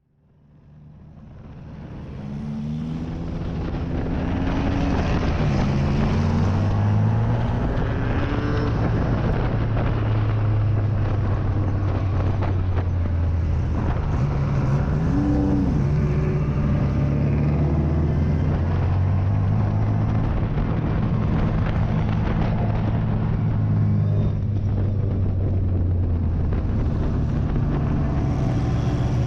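Race car engine under hard acceleration, its pitch climbing and falling repeatedly as it runs through the gears, with a quick rise and fall in pitch about halfway through. It fades in over the first few seconds.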